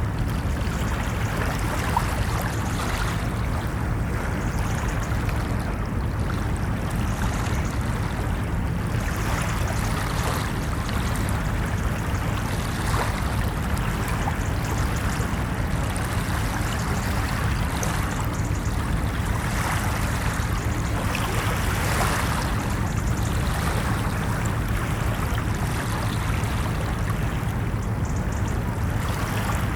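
Ocean waves washing onto a beach: a continuous wash of surf with swells that rise and fall every few seconds.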